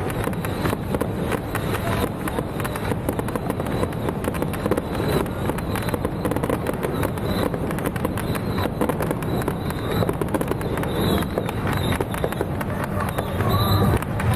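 Fireworks crackling in a dense, continuous run of rapid pops, with voices faintly underneath.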